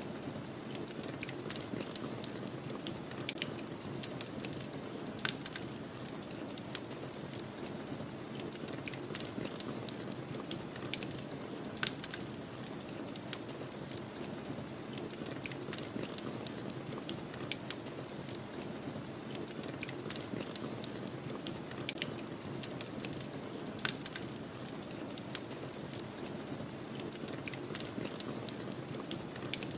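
Wood fire crackling, with irregular sharp pops and snaps over a steady low rushing sound of snowstorm wind.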